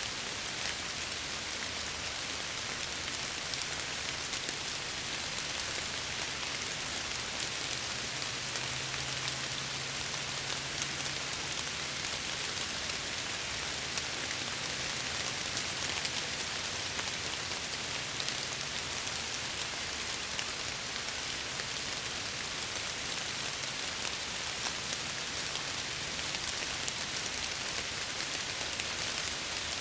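Steady rain falling against window glass, with fine scattered drop ticks.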